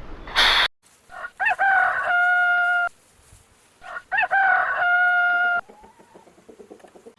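Rooster crowing twice, each crow a quick rising-and-falling opening followed by a long held note. A short loud burst of noise comes just before the first crow.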